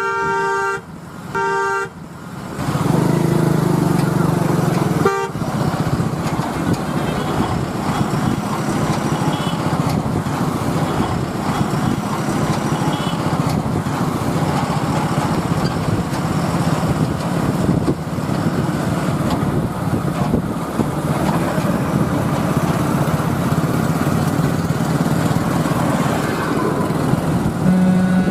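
Two short horn blasts, then a brief third toot about five seconds in, followed by a lorry's engine running steadily under road noise while it drives.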